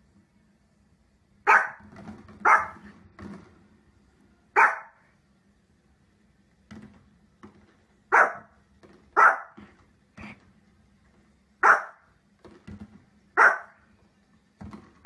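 A small dog barking in single sharp barks, seven loud ones spaced one to three seconds apart, with softer short barks between them.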